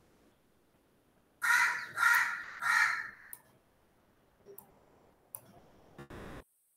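Three loud bird calls in quick succession, each about half a second long, followed by a few faint clicks.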